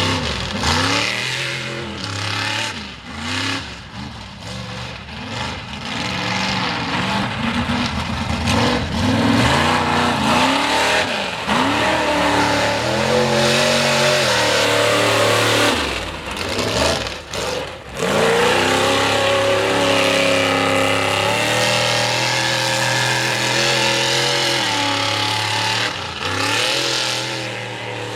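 Big engine of a mud-bogging mega truck revving hard, its pitch climbing and falling, with two brief lifts off the throttle and then held at high revs for several seconds toward the end.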